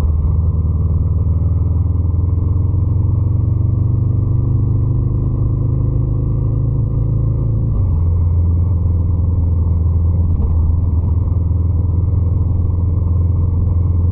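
Scrambler 800 motorcycle engine running under way. The note rises slowly for about eight seconds, then drops suddenly and holds steady at a lower pitch.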